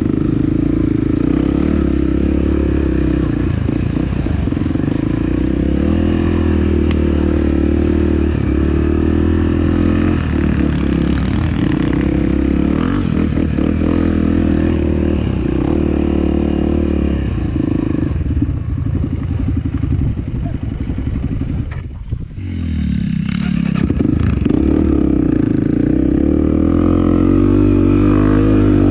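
Trail motorcycle engine running steadily under load, with clatter from the rough ride. About three quarters of the way through it drops away briefly, then revs back up.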